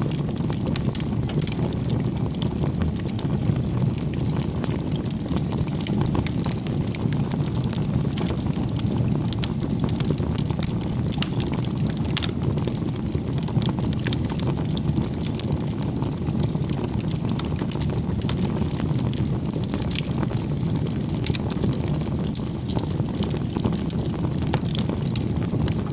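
Campfire crackling: a steady low rush of burning wood with many small, irregular snaps and pops.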